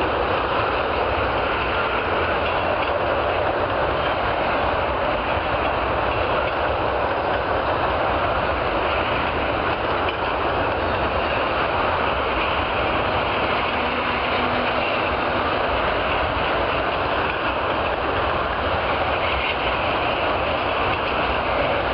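Freight train tank cars rolling steadily past, steel wheels on the rails making a continuous rumble and rattle.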